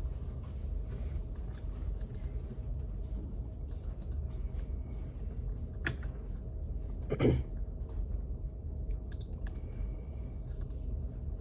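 Quiet library room tone: a steady low hum with scattered small clicks and taps, and one louder knock about seven seconds in.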